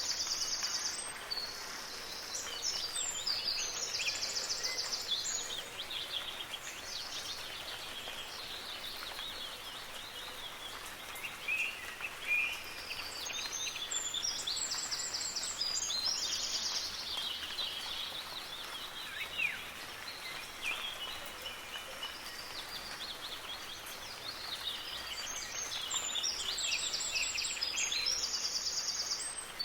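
Songbirds singing over a steady hiss of soft rain. A loud, fast-trilled high song phrase comes three times, near the start, about halfway and near the end, with softer chirps in between.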